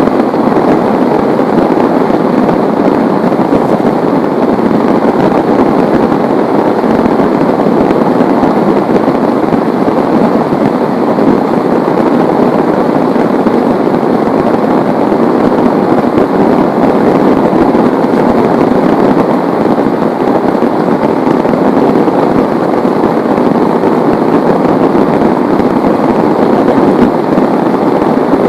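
Heavy rain pouring down steadily, a dense, even hiss of countless drops.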